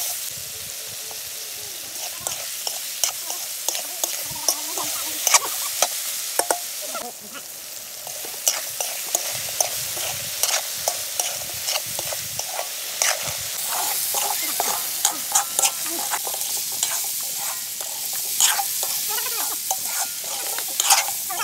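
Chicken pieces sizzling in oil in an aluminium pot while a steel spoon stirs them, with frequent sharp clicks and scrapes of the spoon against the pot.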